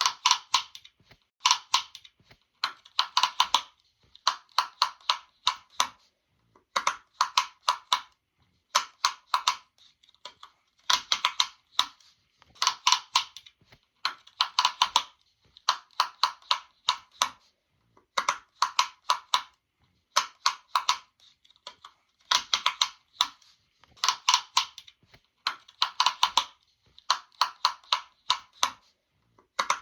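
Sharp popping clicks coming in quick runs of several pops each, with short pauses between the runs, repeating steadily.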